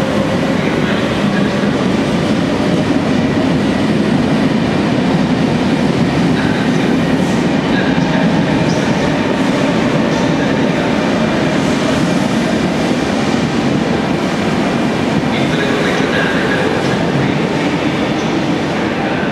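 A train running on rails through an underground station: a steady, loud rumble of wheels on track, with brief high wheel squeals now and then.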